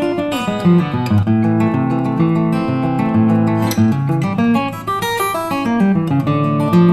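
Background music led by an acoustic guitar, plucked and strummed notes in a steady flow.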